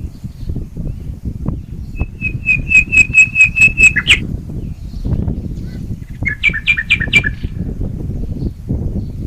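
Birds calling: a quick run of about ten identical high notes, then a few seconds later a shorter run of five two-part notes, over a steady low rumble of wind on the microphone.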